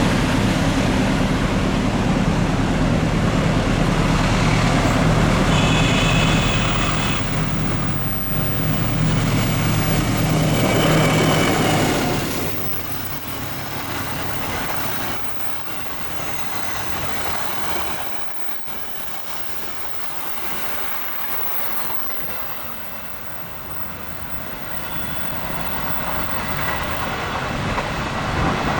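Diesel locomotive of a long-distance train passing close by with its engine running loud, with a brief high tone about six seconds in. After about twelve seconds the engine fades to a quieter rumble of the train rolling on the rails. Near the end another engine grows louder.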